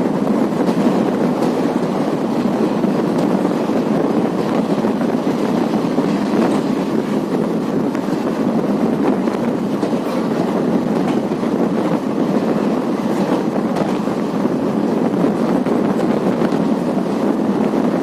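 Passenger express train running at speed, heard from on board: a steady rumble and rush of wheels on the track, with faint scattered clicks.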